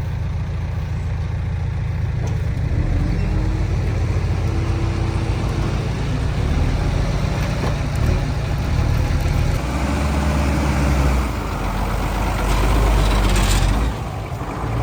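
Heavy diesel engine running, its low drone shifting in pitch and load several times, as earthmoving machinery works.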